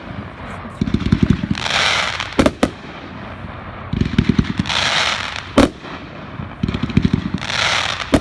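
500-gram consumer fireworks cake firing in a repeating cycle about every three seconds: a quick run of low thumps, a hissing crackle, then a sharp bang, three times over.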